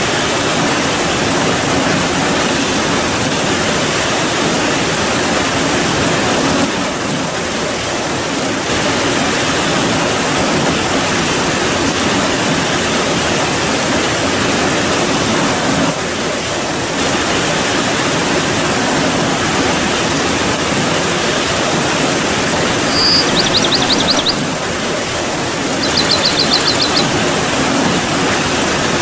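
Steady rain falling, an even hiss with a few brief slight dips. Near the end a short, high, rapid chirping comes twice.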